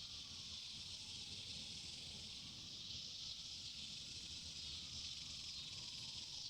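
Steady, high-pitched chorus of insects in the woods, unbroken and even, over a low rumble.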